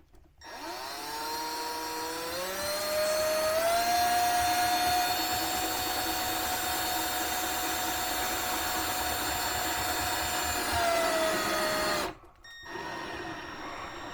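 Power drill motor running: its whine rises in pitch as it speeds up over the first few seconds, holds steady for several seconds, then drops and stops about twelve seconds in. A fainter steady hum follows near the end.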